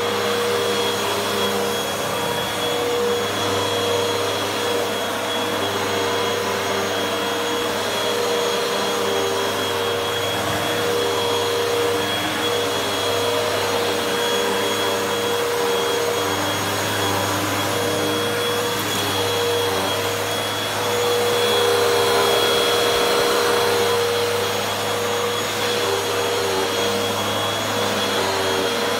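Hoover WindTunnel 2 upright vacuum cleaner running steadily while vacuuming: a constant motor whine over a rushing hiss of air, swelling a little louder about three-quarters of the way through.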